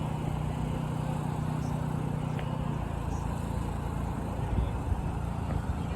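Street traffic outdoors with a vehicle engine running at a steady low hum that cuts off about halfway through, followed by a few low bumps.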